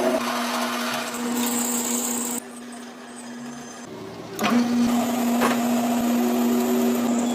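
A workshop machine's electric motor running with a steady low hum. The hum drops away for about two seconds partway through, then comes back at full level.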